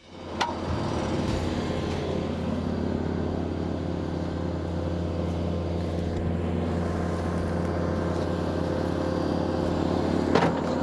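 Tractor engine running steadily, driving the Woodland Mills WC68 PTO wood chipper's flywheel; a steady hum with no chipping heard.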